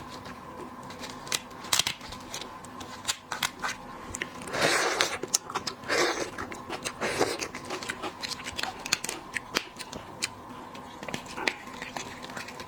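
Close-up eating sounds of shellfish: shells clicking and crackling as they are cracked and picked apart, with chewing, and a few louder crunching bursts about five, six and seven seconds in.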